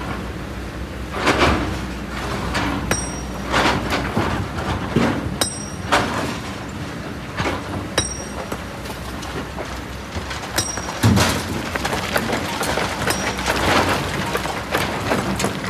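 Hydraulic excavator working a pit of volcanic rock and sand: its diesel engine runs steadily underneath while the bucket scrapes and rocks clatter and knock every second or two. One heavier knock comes a little past the middle.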